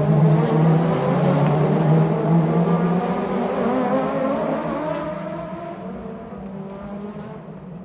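Race car engine noise from the circuit, a steady multi-tone engine drone that fades away over the last few seconds.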